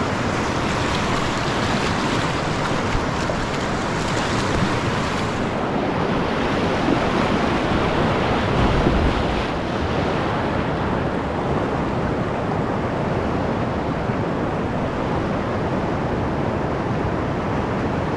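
Whitewater rapids on a swollen mountain creek, rushing steadily as a continuous wash of water noise; the hissy top of the sound drops away about five seconds in.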